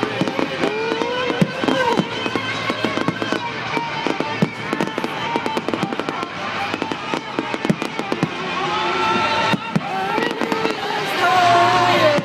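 Fireworks display: many firework bangs and crackles in quick succession, over music from loudspeakers that grows more prominent in the last few seconds.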